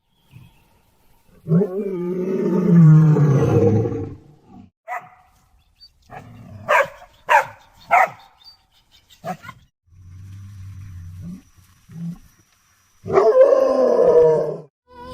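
Animal calls: a long pitched call about a second and a half in, three short calls in quick succession near the middle, and another long call near the end.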